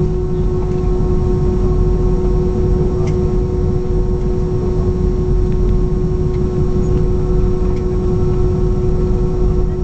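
Steady cabin noise inside an Airbus A321 taxiing after landing: a deep rumble with a constant hum and whine from the aircraft, plus a few faint small clicks.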